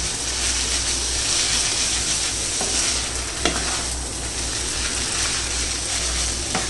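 Chow mein noodles sizzling steadily in a hot pan as they are stir-fried and tossed, with a few sharp knocks of the stirring utensil against the pan.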